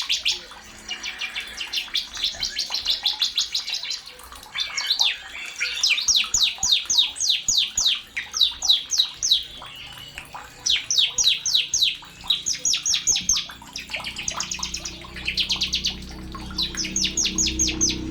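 Sogon bird singing: runs of sharp, rapid chirping notes, several a second, delivered in phrases of a second or two with short pauses between.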